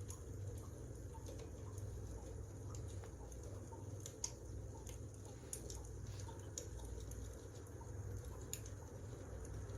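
Wood fire crackling: irregular sharp pops and snaps, one or two a second, over a steady low rumble of the burning logs.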